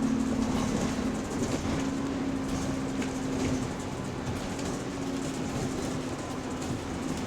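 Bus driveline heard from inside the moving bus: a steady whine from the differential over road and engine rumble, strongest for the first few seconds and then fading. This is the subtle, weird differential noise the bus is making.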